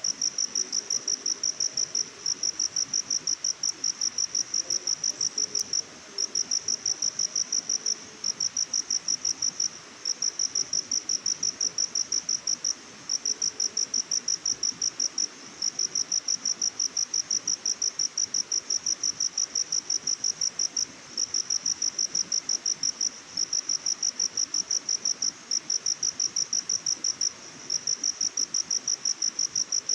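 An insect chirping, high-pitched and fast at about five pulses a second, in long trains broken by brief pauses.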